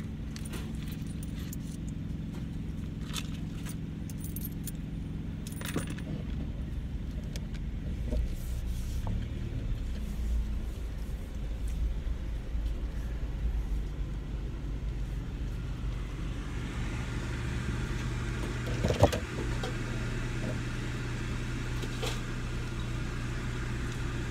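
A car engine running, heard from inside the cabin as a steady low hum, with light metallic jingling and clinks, mostly in the first several seconds. A single sharp knock comes about 19 seconds in.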